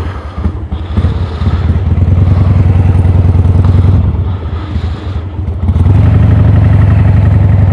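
Cruiser motorcycle engine running, picked up by a microphone inside the rider's helmet. It gets louder about a second in, eases around four to five seconds, then holds steadier and louder from about six seconds in.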